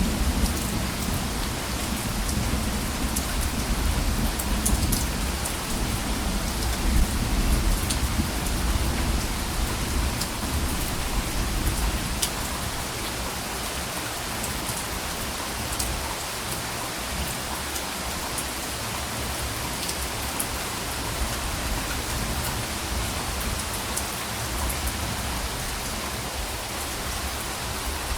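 Steady rain falling on a surface, with scattered close drop ticks. A low rumble of thunder rolls under it through the first half and dies away about halfway through.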